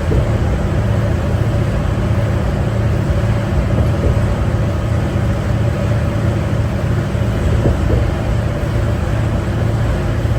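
Inside a 2011 New Flyer D60LFR articulated diesel bus: its Cummins ISL9 engine and Allison B500R automatic transmission running steadily under way, a constant low drone over road and tyre noise.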